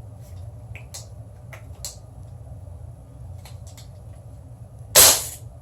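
A few faint clicks of handling, then about five seconds in a single loud, sharp shot from an HK 416D gas blowback airsoft rifle, fired in semi-auto.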